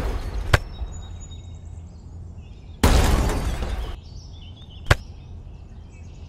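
Sharp plastic clicks as toy train carriages are set back on a plastic track, one about half a second in and another near five seconds. About three seconds in comes a loud crash-like noise that fades away over about a second.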